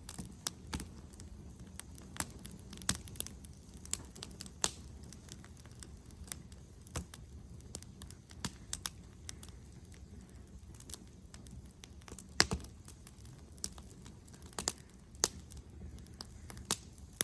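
Big bonfire in a fire pit crackling: irregular sharp snaps and pops, a few a second with some louder ones, over a steady low rumble.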